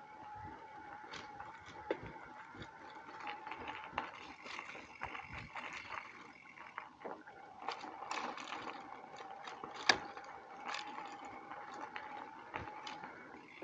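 Bicycle rolling over a bumpy field track: the bike rattles and clicks throughout over a steady whirring hum. There is one sharp, loud knock about ten seconds in.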